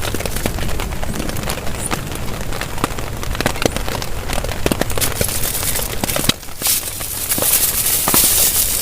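Heavy rain pelting a tarp: a dense hiss full of sharp drop impacts. It dips briefly about six seconds in, then comes back harder.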